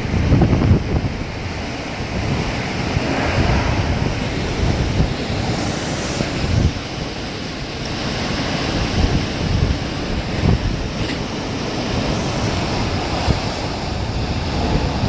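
Hurricane wind rushing steadily, with strong gusts buffeting the microphone in low, irregular rumbles.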